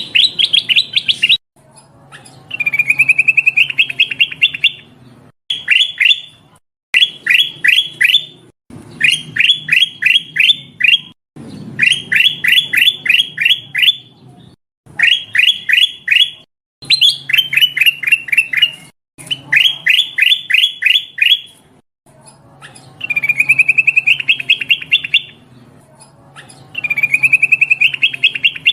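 Kutilang emas bulbul calling for luring: repeated bursts of quick, sharp notes, each burst about a second and a half, alternating with longer, denser chattering trills, with a low hum under them.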